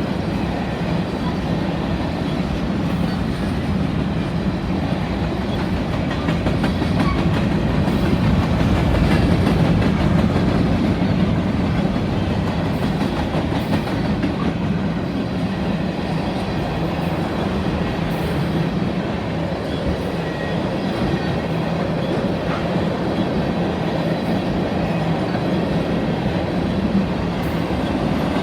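Mixed freight train rolling past at speed: a steady rumble of wheels on rail, swelling slightly about eight to ten seconds in.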